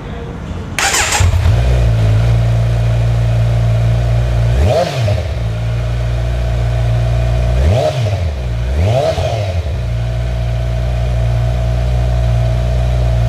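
Motorcycle engine running at idle after coming in with a burst about a second in, blipped briefly three times so the pitch rises and falls, then settling back to a steady idle.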